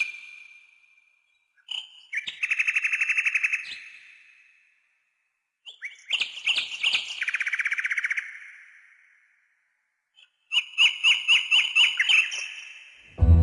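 Nightingale song: separate phrases of rapid trills and clear whistles, each a second or two long, with short silences between them. The orchestra comes in at the very end.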